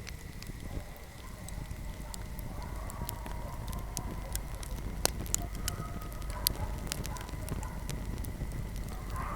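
Wood fire crackling in a fireplace: scattered sharp pops and snaps over a low steady rumble of flame, with a faint wavering whistle from the burning wood joining in after a second or two.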